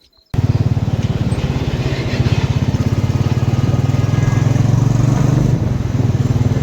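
Motorcycle engine running steadily on the move, a fast even pulsing that cuts in abruptly a moment after a short silence.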